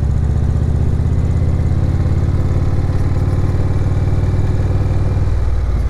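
Motorcycle engine running steadily at low revs, its exhaust pulsing evenly; the note drops slightly near the end.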